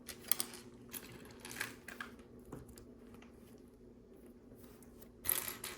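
Plastic LEGO pieces being handled and fitted together: a few light clicks and short rustles in the first two seconds, and a louder rustle near the end, over a faint steady hum.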